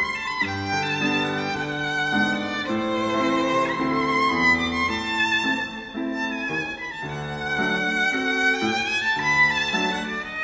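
Background music: a solo violin playing a slow melody with gliding notes over a low string and bass accompaniment.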